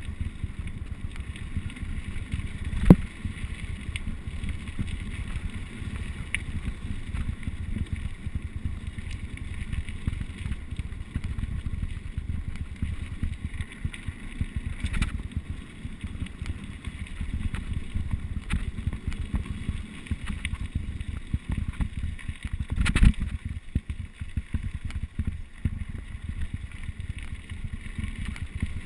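Wind noise on the microphone over a downhill mountain bike rolling on rough ground, with two sharp knocks, one about three seconds in and another about twenty seconds later.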